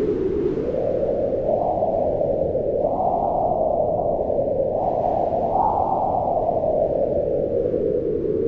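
Howling wind, a steady rush whose pitch slowly rises and falls as the gusts swell and ease, highest about three and five and a half seconds in.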